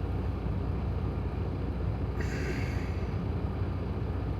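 Steady low rumble inside a Freightliner Cascadia semi-truck's cab, with a short breathy sound a little over two seconds in.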